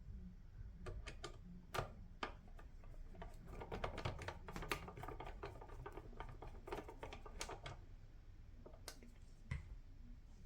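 Hard plastic center-console and cupholder parts clicking and knocking as they are handled and fitted together, in irregular clusters of light taps, busiest in the middle, with a sharper knock near the end.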